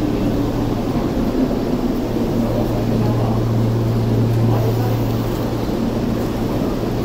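Stopped Seibu 6000 series commuter train standing at the platform with its doors open, its onboard equipment giving a steady low hum, amid the bustle of passengers on the platform.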